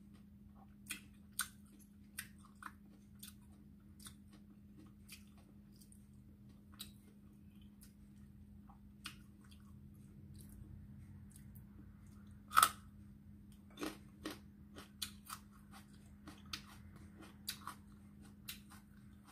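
Close-up chewing and crunching of food eaten by hand, with scattered sharp mouth clicks and a single much louder crunch about two-thirds of the way through, likely a bite into a raw green chili. A steady low hum runs underneath.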